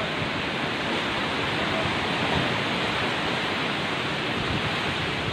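Typhoon winds and heavy rain making a steady, unbroken rushing noise.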